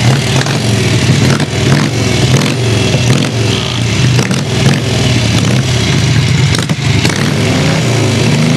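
Indian Scout motorcycle's sidevalve V-twin engine running and being revved, its pitch rising and falling repeatedly.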